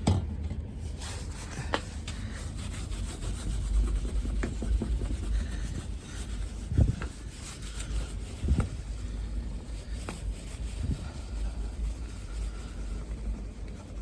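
Microfiber cloth rubbing and scrubbing soapy water over leftover sticker adhesive on a semi truck's side, with a few soft knocks, over a low steady rumble.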